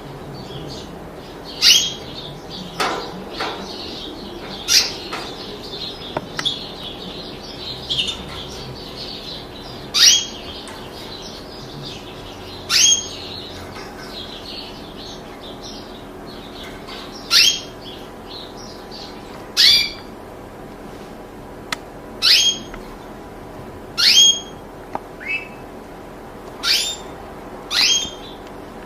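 Songbird calls: a loud, short call sweeping steeply down in pitch repeats every two to three seconds over soft, continuous twittering.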